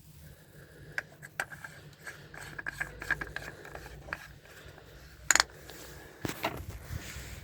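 Handling noise: scattered light clicks and rubbing over a low steady hum, with one sharp click about five seconds in.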